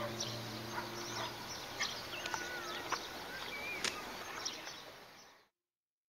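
Birds chirping and whistling, short calls and a few curving whistled notes over a steady hiss, fading out and cutting to silence about five and a half seconds in.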